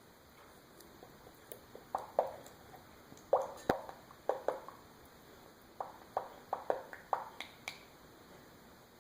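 A quart bottle of motor oil glugging as it is poured through a funnel into a motorcycle's filler: irregular hollow plops in three bunches, about two seconds in, around three and a half seconds in, and from about six seconds in until near the end.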